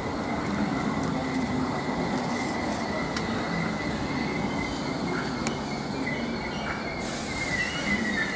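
A train running slowly along the platform, with a steady high-pitched squeal over the rumble of the train and a few sharp clicks. The squeal wavers and grows a little louder near the end.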